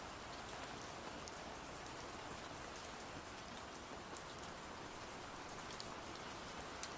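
Steady rain, an even hiss with scattered light ticks of individual drops.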